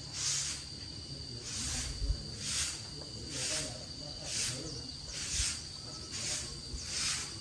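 Hand scraping strokes at about one a second, each a short hiss, over a steady high-pitched insect drone.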